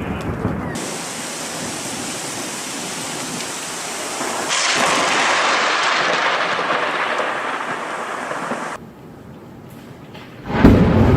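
Thunderstorm: a steady hiss of heavy rain that swells about halfway and cuts off abruptly, followed near the end by a loud, sudden clap of thunder from a nearby lightning strike.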